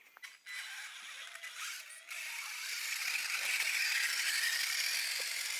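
Electric motor and geared drivetrain of an RC crawler truck running: a thin, high-pitched whirr that builds up about two seconds in and then holds steady.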